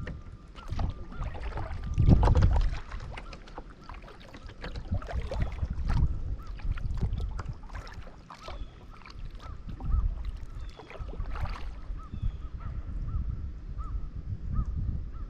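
Kayak paddling on a pond: paddle strokes splash the water and knock lightly on the hull, with a low rumble that swells every few seconds, loudest about two seconds in. From about two-thirds of the way through, a bird calls faintly and repeatedly, about twice a second.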